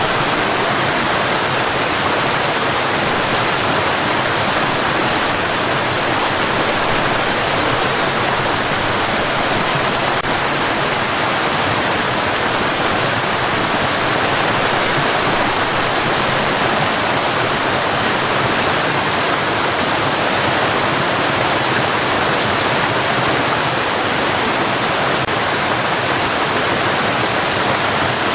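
Steady white noise: an even rushing hiss that never changes in level or character.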